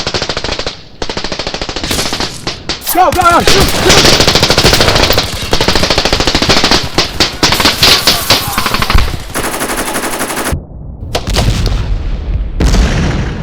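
Battle sound effects of sustained, rapid machine-gun and rifle fire. A voice shouts briefly about three seconds in, and there is a heavy low rumble near the end.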